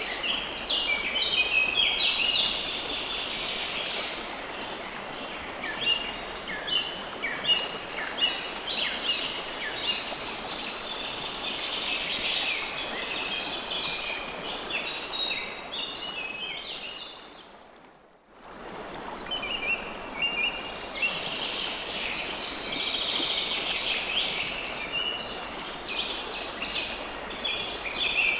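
River water flowing steadily, with many small birds chirping rapidly over it. About seventeen seconds in, the whole sound fades to near silence and returns within about a second.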